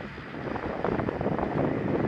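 ShinMaywa US-2 flying boat's turboprop engines running, a steady rumble under heavy wind noise on the microphone, which grows louder about a second in.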